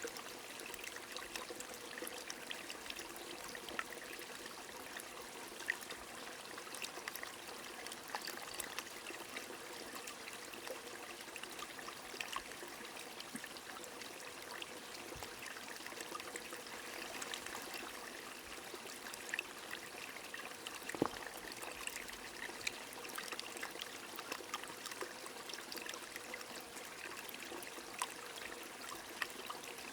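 A stream flowing steadily under light rain, with many small drop ticks scattered throughout and one sharper tick about two-thirds of the way through.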